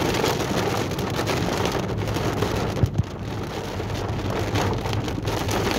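Heavy rain on a car's windshield and roof heard from inside the cabin, a steady hiss over the low hum of the moving car, with a brief knock about three seconds in.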